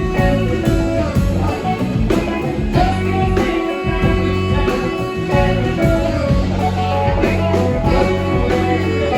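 Live band music with guitar prominent, over steady low notes and regular beats.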